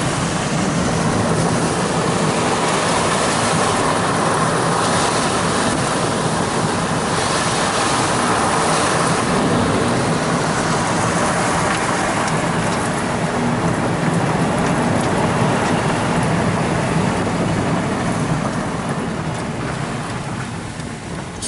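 Car driving along a road: steady engine and tyre noise, easing off over the last few seconds as it slows.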